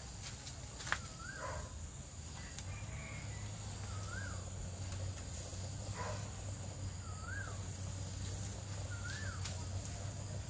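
A bird calling four times, each a short note that rises then falls, a few seconds apart, with a few faint sharp cracks from the wood fire under the bamboo.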